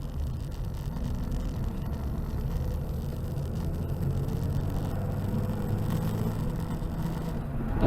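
A car driving, with steady low engine and road rumble heard from inside the cabin.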